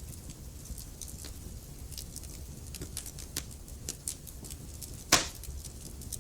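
Wood fire crackling in a fireplace: irregular small snaps over a low steady rumble, with one louder pop about five seconds in.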